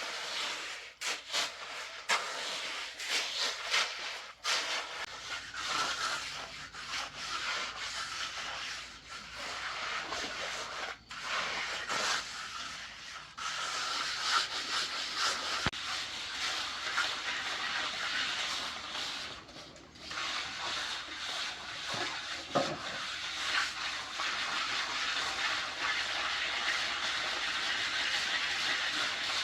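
Continuous scraping and rubbing against a rough surface, uneven in strength, with several sharp knocks in the first half and a brief lull about two-thirds of the way in.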